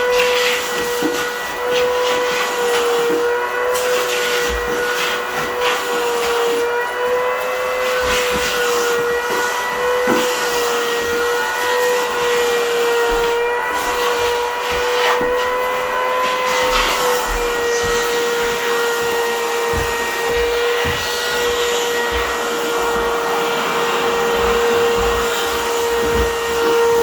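Vacuum cleaner running steadily while its extended wand is worked over window blinds: a continuous motor whine over a rushing hiss, wavering slightly in pitch.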